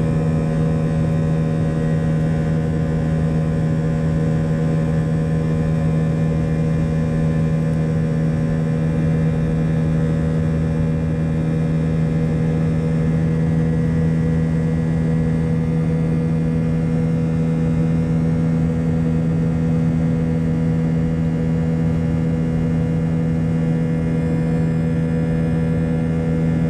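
Jet airliner's engines running with a steady drone: a constant low hum over a rumble, unchanging throughout.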